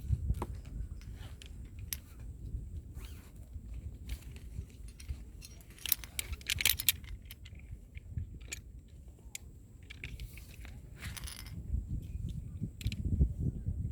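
Metal climbing gear clinking and jangling, carabiners and quickdraws knocking together in scattered clicks, with a dense flurry about halfway through, over a low rumble.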